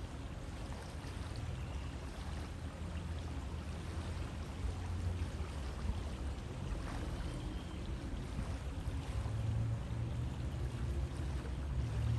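A river flowing: steady rushing water with a deep low rumble underneath.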